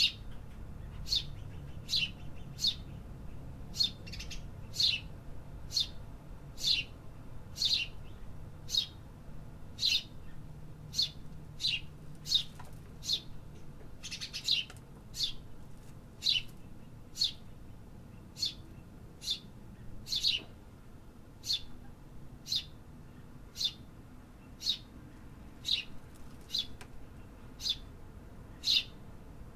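Bird chirping, one short, high chirp repeated a little more than once a second, fairly evenly, over a faint low background rumble.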